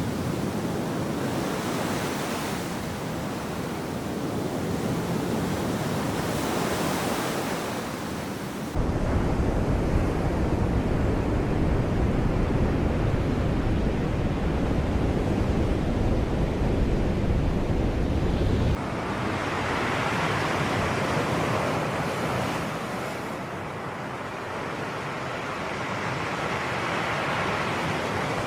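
Sea waves washing and breaking in a steady rush. A deep rumble joins abruptly about nine seconds in and cuts off just as abruptly about ten seconds later.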